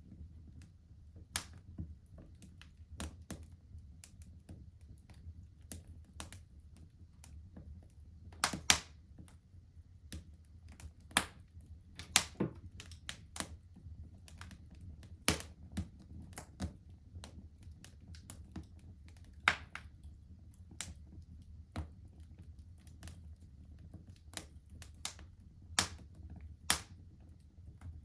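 Wood fire crackling in a fireplace: irregular sharp pops and snaps, a handful noticeably louder than the rest, over a low steady rumble.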